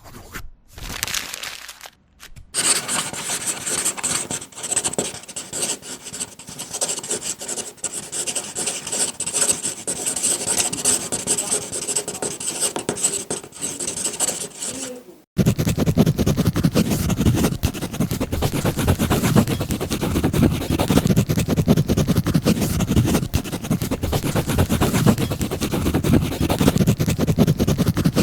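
Writing sounds: a writing tool scratching and rubbing across a surface in quick strokes, in three separate takes. A short take, a brief pause, then a longer, thin, hissy take; about halfway through it switches abruptly to a louder, fuller-sounding one.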